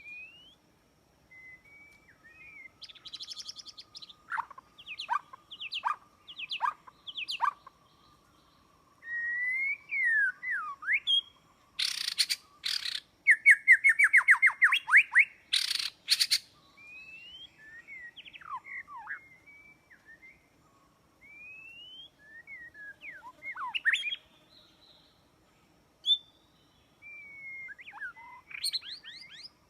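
White-rumped shama (murai batu) singing: a varied run of clear whistles, sliding notes and fast trills, loudest near the middle with a quick trill and a few harsh notes.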